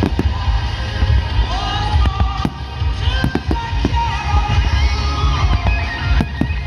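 Display fireworks bursting in a rapid string of sharp bangs and booms over loud music with a melody.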